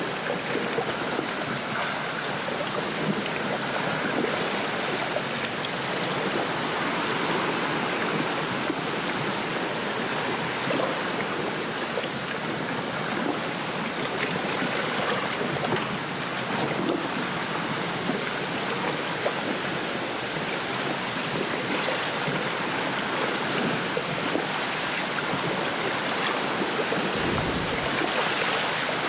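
Small waves lapping and splashing at a lakeshore while the wind rustles through a reed bed, as a steady wash of sound. A brief low rumble comes near the end.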